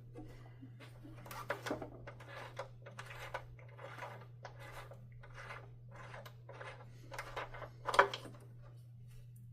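Irregular small scrapes, rubs and clicks of hands working the power button out of a Hoover Dimension 1000 canister vacuum's housing, with a sharper click about eight seconds in, over a steady low hum.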